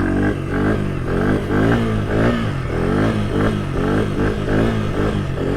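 Honda CRF100 pit bike's small four-stroke single engine revving hard during a wheelie up a hill, its pitch climbing and dropping again and again as the throttle is worked.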